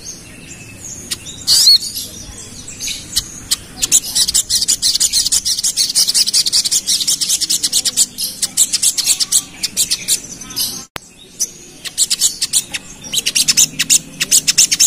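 Crimson sunbird (sogon) singing a fast, dense run of high chirps and clicks. It comes in two long stretches with a short break in the middle.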